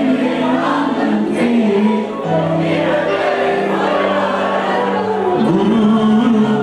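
Live pop concert music with many voices singing a sustained melody together, as a crowd singing along.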